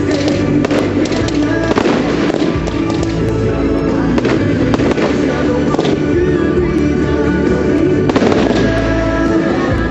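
Fireworks display: repeated bangs and crackling bursts of fireworks over loud accompanying music with steady held notes.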